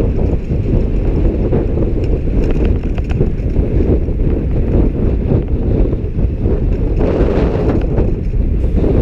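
Wind buffeting the microphone of a camera on a moving bicycle: a loud, steady low rumble, with a brief brighter hiss about seven seconds in.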